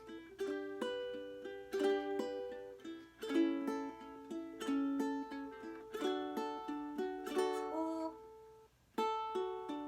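Ukulele played fingerstyle: plucked chord notes picked in a steady pattern, each note ringing and fading. The playing stops briefly about a second before the end, then starts again.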